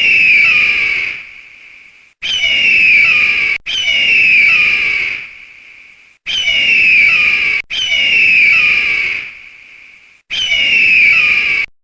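A shrill animal call, falling slightly in pitch and lasting over a second, repeated six times with short gaps.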